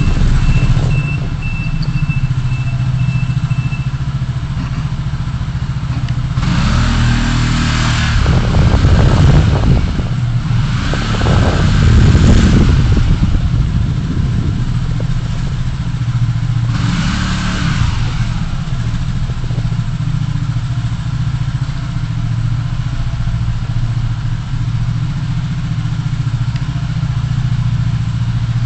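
Car driving through city traffic: a steady low engine and road hum, with three louder rushes of other vehicles going past, about six, ten and seventeen seconds in.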